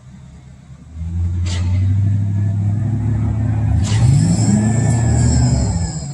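Concrete truck's diesel engine revving hard as the stuck truck tries to drive itself out. It comes in about a second in, climbs in pitch around the middle and drops away near the end.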